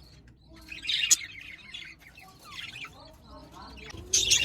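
Budgerigars chirping and chattering, with a burst about a second in and louder, busier chatter near the end.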